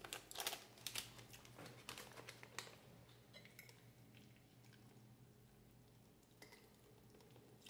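Faint mouth clicks and wet chewing from someone eating spaghetti with sausage, a quick cluster of smacks in the first three seconds, then only a few faint clicks.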